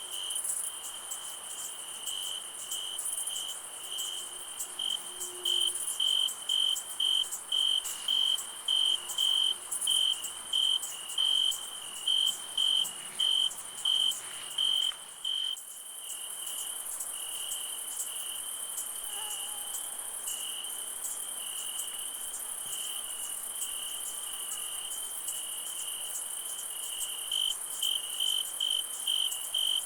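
Crickets chirping at night in an even rhythm of about two chirps a second, over a steady high insect hiss. About halfway through, the chirps run together into a continuous trill, then break back into separate chirps near the end.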